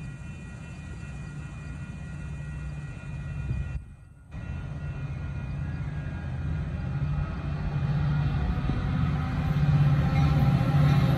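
Metra diesel commuter train approaching on the tracks, its low engine rumble growing steadily louder as it nears. The sound drops out for about half a second around four seconds in.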